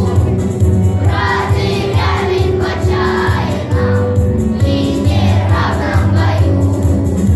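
A children's choir singing a song together over musical accompaniment.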